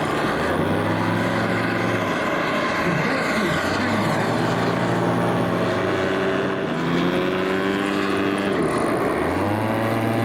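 Propeller-driven RC model aircraft engines running. Their pitch holds, drops and climbs again with the throttle, and at times two engines are heard at once.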